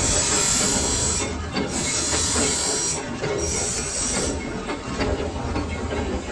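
Lathe machine running with a steady low rumble, with three bursts of high hissing, each about a second long, in the first four seconds.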